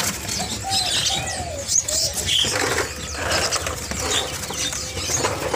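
Many caged songbirds chirping and twittering together, with a few low cooing calls about half a second to a second and a half in.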